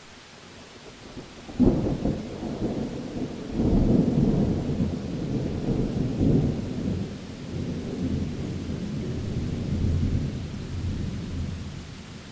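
Thunder over steady rain: a sharp crack about a second and a half in, then a long low rumble that swells again and slowly fades near the end.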